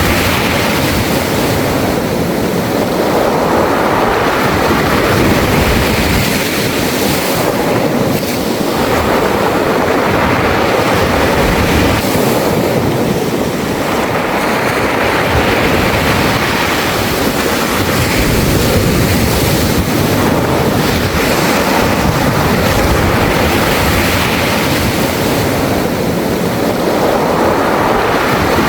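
Sea waves washing up and drawing back over a beach of smooth round pebbles, the wash swelling every several seconds with the hiss and rattle of the stones.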